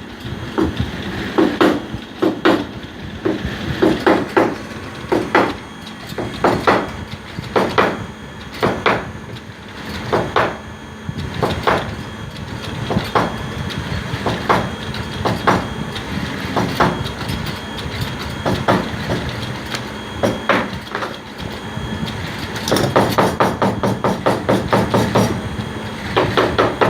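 Repeated sharp knocks, about one or two a second, with a quicker run of taps near the end.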